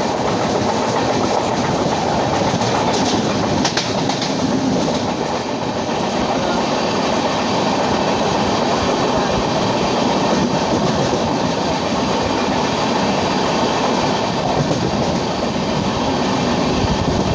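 Passenger train's LHB coaches running along the track, wheels clattering over the rails with a steady, loud rumble.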